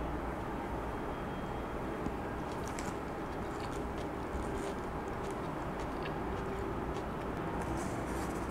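A steady low background rumble, with soft scattered clicks and crackles from chewing a bite of chicken burger and, near the end, from handling a cardboard chicken box.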